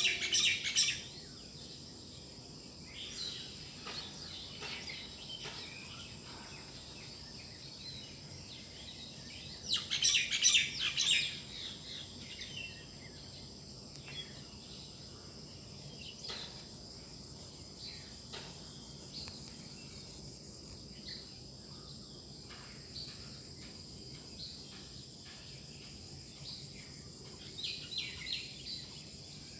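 Songbirds chirping and singing in short bouts, the loudest burst about ten seconds in, over a steady high-pitched background drone.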